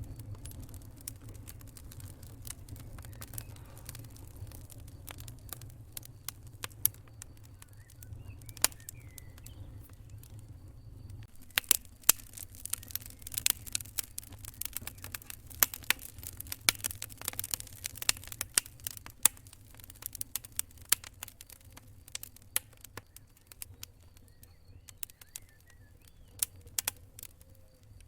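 Campfire burning, with a low rumble under irregular sharp crackles and pops from the burning wood. The pops come thick and fast for several seconds in the middle, then thin out again.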